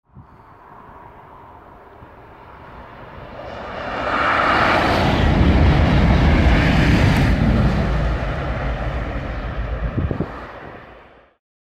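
TGV high-speed train passing at speed. A rushing pass-by builds over about four seconds, stays loud for several seconds, then fades and cuts off abruptly near the end.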